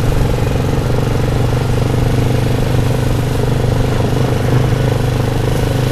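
Engine of an off-road vehicle running steadily at an even speed while driving, with no revving.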